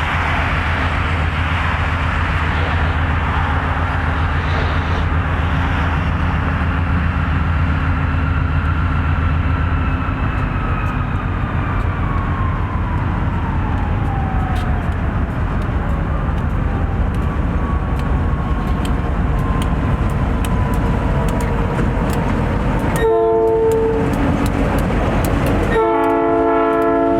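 Diesel-hauled freight train passing: a steady low locomotive engine drone gives way to a whine falling in pitch as it goes by, then steady clicking of wheels over the rail joints. Near the end the locomotive horn sounds twice, a short blast and then a longer one.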